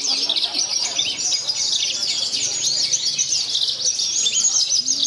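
Several Javan bush larks (branjangan) singing at once: a dense, unbroken chorus of rapid high chirps and trills that overlap throughout.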